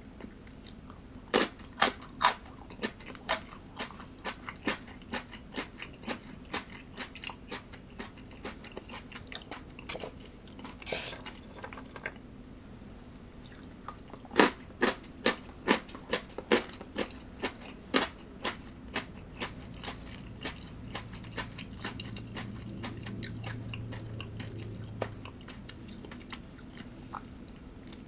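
A person biting and chewing crunchy food, with a run of sharp crunches about two or three a second that thin out after about 18 seconds.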